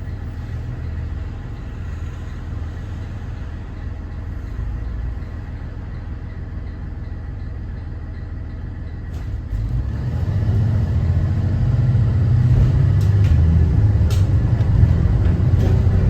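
School bus ride in a 2014 Thomas Saf-T-Liner C2 with its Cummins ISB 6.7 diesel: a steady low rumble of engine and road noise. About ten seconds in it grows louder, with rattles and clicks over it.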